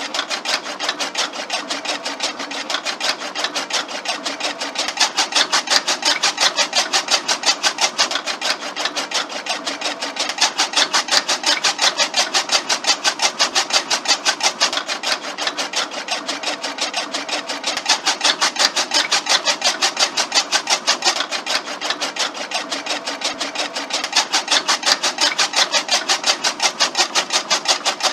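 Homemade mini grass-cutting machine driven by a small motor, running with a rapid, even clatter of many strokes a second that grows louder and softer in stretches of a few seconds.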